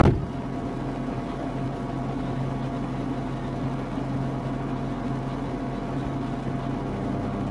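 A sharp click, then a vehicle engine idling with a steady low hum.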